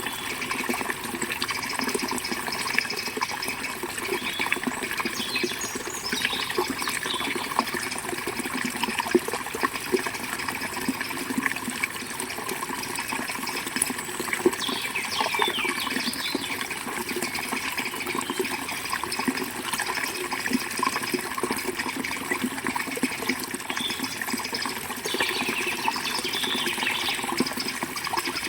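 River water flowing and rushing steadily over rocks, with a few short bird chirps now and then.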